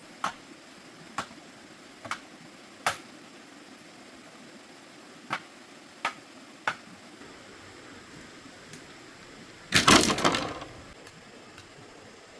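Seven short, sharp knocks at uneven intervals, then a louder burst of clattering about ten seconds in that lasts around a second.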